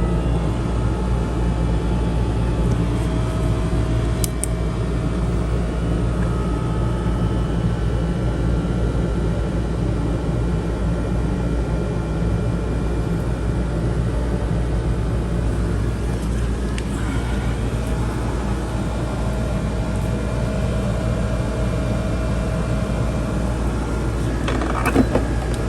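DeLonghi bean-to-cup coffee machine's water pump running with a steady low buzz at start-up, with a couple of short clicks. Water is not reaching the pump, which the repairer suspects is an air lock.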